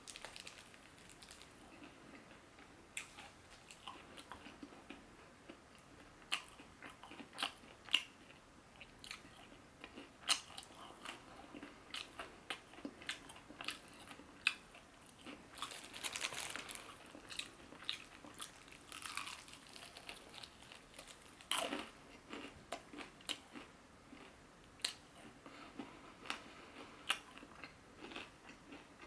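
A person biting into and chewing crispy fried chicken: irregular sharp crunches of the fried coating with chewing between, with a longer run of crunching around the middle.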